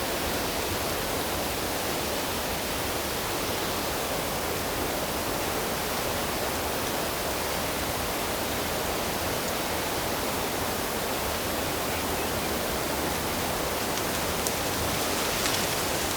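Steady, unbroken rush of flowing water, with a few faint ticks near the end.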